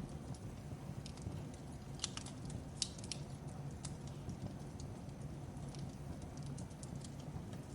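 Fireplace crackling: wood fire with irregular sharp pops and snaps over a steady low rumble, a louder pop about three seconds in.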